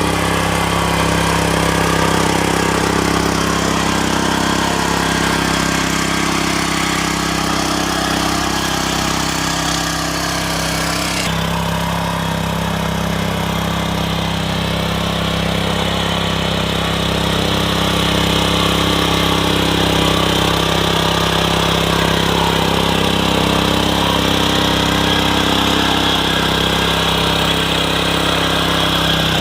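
Small engine of a mini rotavator running steadily. The higher hiss drops away abruptly about eleven seconds in while the engine note carries on.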